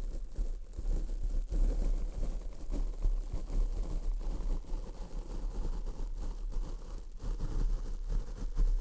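Close-up scratchy rubbing and crackling right on a microphone, a continuous stream of small crackles over a steady low hum.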